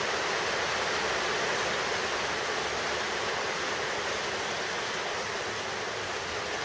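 Steady hiss of rain falling, an even rushing noise that does not change.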